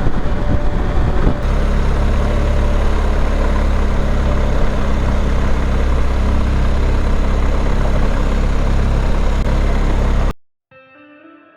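BMW R1250GS boxer-twin motorcycle engine running steadily after an uneven first second or so, loud, then cut off abruptly near the end.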